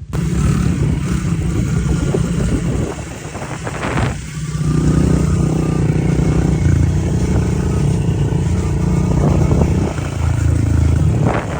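Pit bike engine running under throttle as it is ridden, dropping off briefly about three to four seconds in before picking up again.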